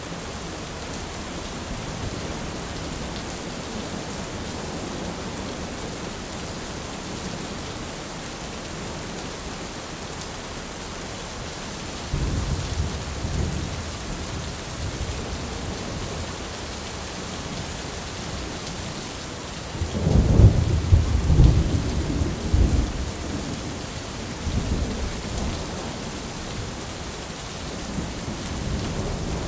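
Steady heavy rain with rolls of thunder: a low rumble swells up about 12 seconds in, a louder crack and rumble comes about 20 seconds in and rolls on for a few seconds, and more thunder builds near the end.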